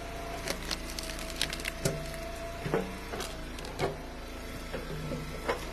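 Ash firewood rounds cracking apart on an Eastonmade wood splitter: a series of sharp cracks and knocks of splitting wood over the splitter's steady running hum.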